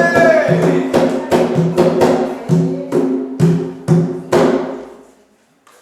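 A sung chant ends on a held note just at the start. Drums keep beating a steady rhythm of about two strokes a second, then stop and die away about four and a half seconds in.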